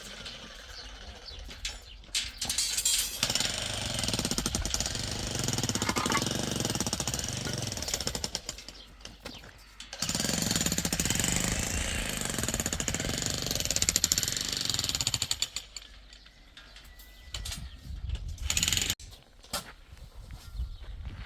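Electric demolition hammer chipping at a wall, running in long stretches of rapid blows. It stops about three-quarters of the way through, and scattered knocks follow.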